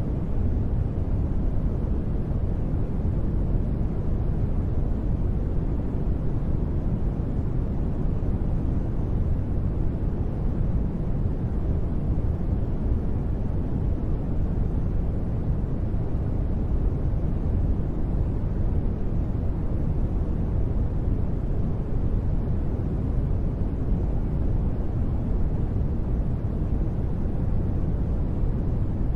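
Continuous sleep noise with no changes or sudden sounds, weighted toward the low end so it sounds deep and muffled rather than hissy, more like brown noise than bright white noise.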